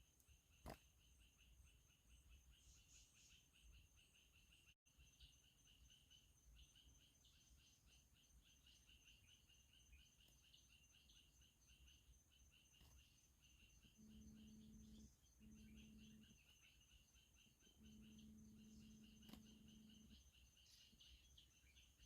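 Faint outdoor insect chorus: a fast, ragged chirping trill with a thin steady high buzz above it. Three spells of a low steady hum come in about two-thirds of the way through.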